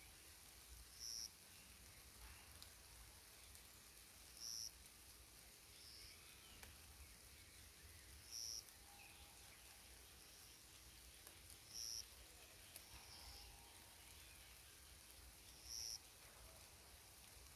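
A bird in a forest repeats a short, high call about every three to four seconds, faint against a quiet background.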